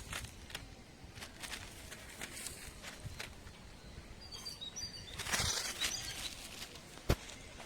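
Rustling and scattered clicks, with a few faint, short bird chirps about halfway through, a louder rustle just after, and one sharp click near the end.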